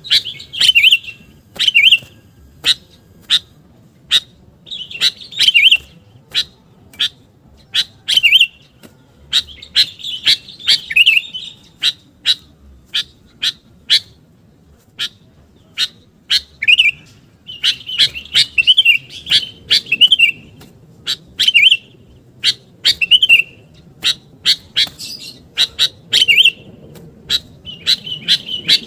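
Sooty-headed bulbul (kutilang) calling: short sharp chip notes repeating once or twice a second, broken by quick bubbly warbled phrases. This is the lively call used as a lure to draw in wild bulbuls.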